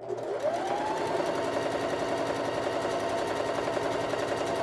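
Electric sewing machine starting up and stitching a seam: its motor whine rises over the first second, then it runs steadily at speed.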